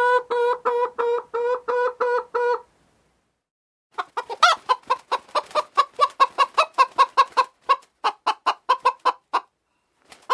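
Chicken clucking in two runs: first a pitched, pulsing cackle of about eight notes, then, after a pause of about a second, a long, faster series of short clucks, about five a second.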